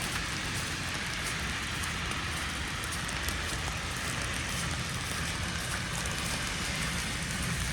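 Steady hiss and patter of wet falling snow, with a low rumble underneath.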